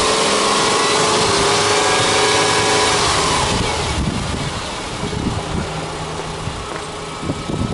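Subaru Impreza 20S hatchback's flat-four boxer engine, heard at the open engine bay, held at raised revs that slowly ease off. About three and a half seconds in it drops back to a steady idle.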